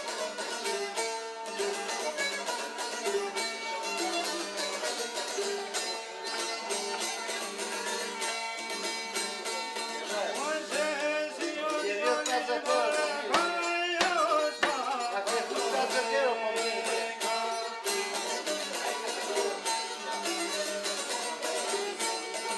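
Traditional folk music on a plucked string instrument over a steady low drone, with a voice briefly rising over it about halfway through.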